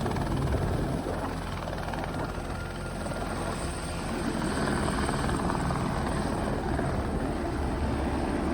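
Helicopter rotor and engine noise, steady, growing a little louder about halfway through.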